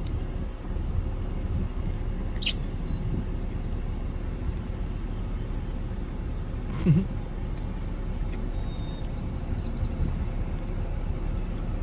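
Steady low outdoor rumble, with a short thin squeak about two and a half seconds in and a brief louder call about seven seconds in.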